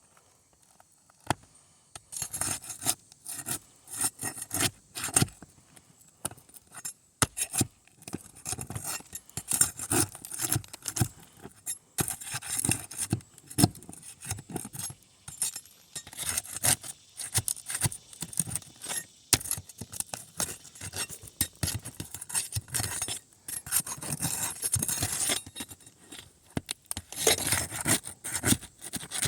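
Metal roofing tool scraping and clinking against asphalt shingles in short, irregular strokes as a shingle is worked loose.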